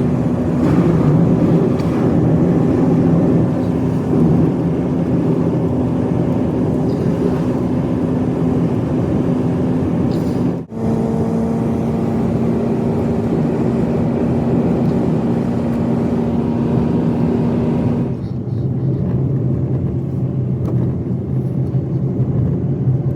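A motor vehicle's engine running steadily with a droning hum under dense road or track noise, in three edited stretches; the hum changes pitch at each cut, about 11 and 18 seconds in.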